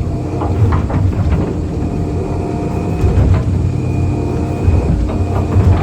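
Excavator's diesel engine running steadily under load, with a steady hydraulic whine over it and a few light knocks and clanks here and there.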